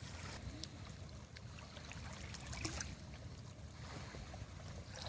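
Water splashing and lapping, with small irregular splashes over a low steady rumble.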